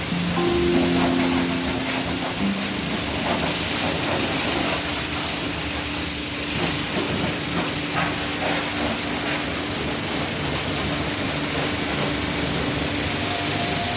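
Steady hiss of high-pressure water spraying from a car wash, going on evenly throughout.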